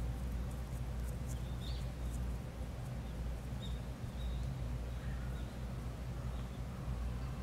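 Small birds chirping: short, high, faint chirps every second or so, over a steady low rumble.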